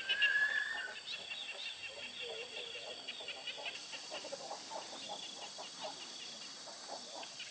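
Chickens clucking and cheeping in a farmyard, with one loud held call in the first second followed by many short, quick chirps.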